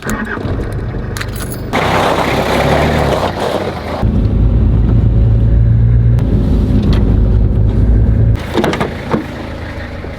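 Car engine running as the car drives, its low note stepping up and down a few times as the load or gear changes.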